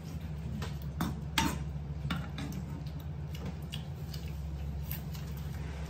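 Crisp crunching of raw cucumber being chewed: a few sharp crackles in the first half, then fainter ones, over a steady low hum.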